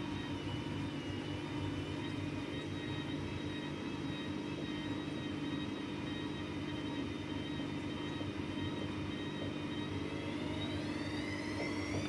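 AEG Lavamat Turbo washer-dryer running, a steady motor hum with a high whine. Near the end the whine rises in pitch as the drum speeds up.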